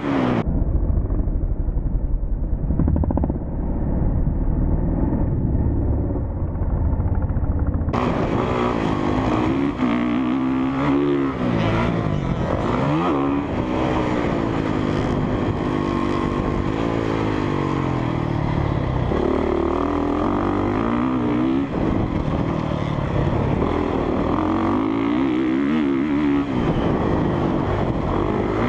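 Single-cylinder four-stroke engine of a Honda CRF450R dirt bike revving up and down as it is ridden around a motocross track, the pitch climbing and dropping with throttle and gear changes. For about the first eight seconds the sound is dull and muffled with heavy low rumble, then it opens up to full brightness.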